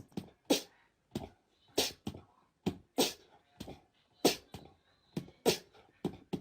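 A series of short, sharp knocks or taps, irregularly spaced at about two or three a second.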